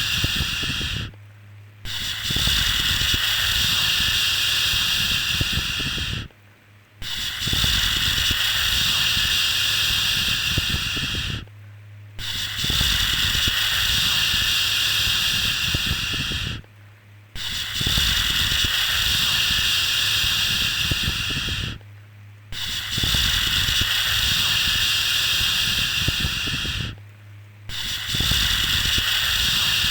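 Repeated long 'shhh' shushing sounds for soothing a baby, each a hiss of about four and a half seconds, with a short pause roughly every five seconds.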